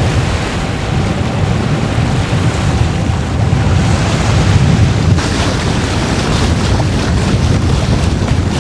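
Wind buffeting the microphone over the wash of water along the hull of a sailboat under way.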